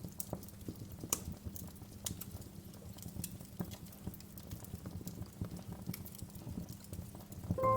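Wood fire crackling in a fireplace: irregular sharp pops and snaps over a low steady rumble. Music comes in right at the end.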